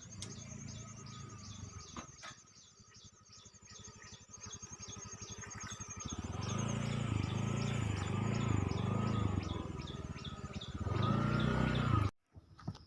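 A bird calling with a rapid high chirp, repeated evenly about four times a second. About halfway through, a low pulsing drone comes in and grows louder, and all sound cuts off suddenly just before the end.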